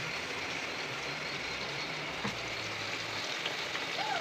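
Steady sizzling of a green paste frying in hot oil in a steel wok on a gas stove, with a light clink about two seconds in.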